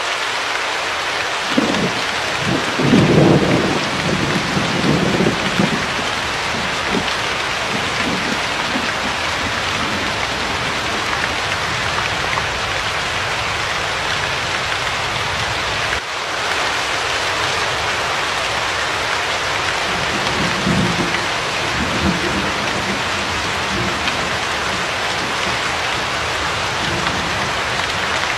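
Steady rain falling as an even hiss, with low rumbles of thunder swelling about two seconds in and again about twenty seconds in.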